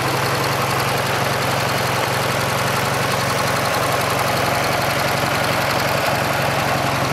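Ural Cossack motorcycle's air-cooled boxer twin engine idling steadily.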